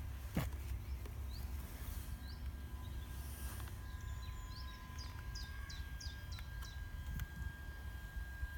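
A small bird chirping: scattered short downward-sliding notes, with a quick run of about six of them about five to six seconds in. Underneath is a low steady rumble and a faint steady high tone.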